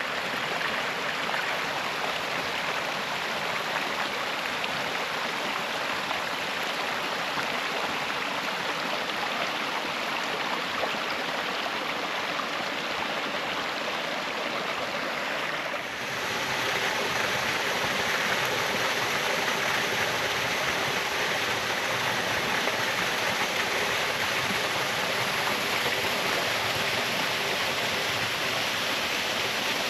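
Rain-swollen woodland waterfall with water pouring steadily onto rock. After a brief dip about halfway through, it is a little louder.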